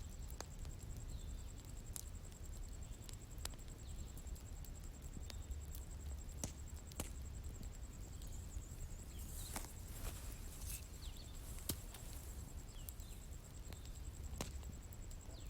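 Outdoor wood bonfire crackling: sharp pops every second or so over a low rumble of the fire. Faint bird chirps and a steady high insect drone run in the background.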